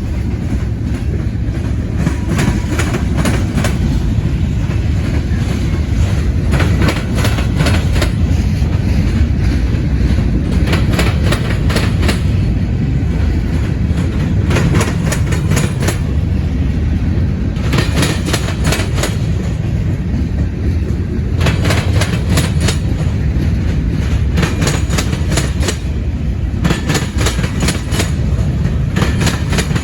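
Freight train cars rolling past, a steady low rumble with repeated clusters of sharp clacks as the wheels cross rail joints.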